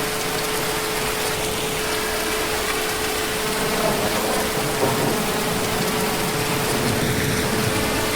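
Heavy rain falling steadily, an even hiss with no let-up, with a thin steady hum running under it.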